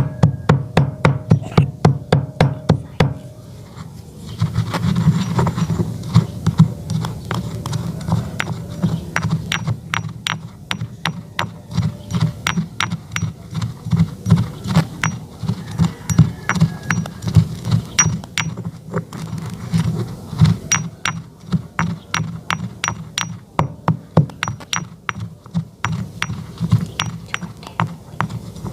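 Sticks of chalk being crushed, a rapid run of sharp crunches and cracks, about three a second at first and then more irregular.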